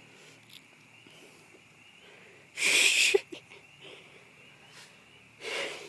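Frog chorus as a steady, high, continuous trill, broken twice by loud rushing bursts of noise: a short one about two and a half seconds in, the loudest sound here, and a second one near the end.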